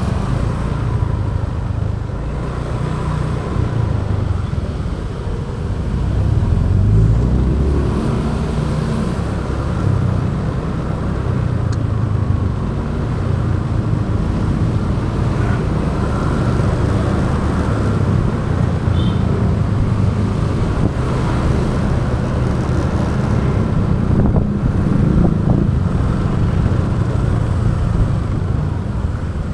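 Motorbike engine running steadily on the move, with a heavy low rush of wind and road noise that swells and eases.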